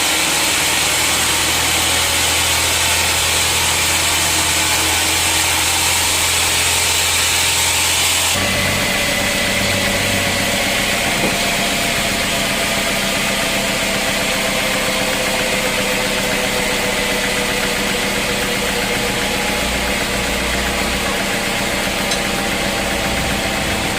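Sawmill machinery running continuously. For the first eight seconds a loud high hiss sits over a steady low hum; then the sound changes abruptly to a steady engine-like running without the hiss.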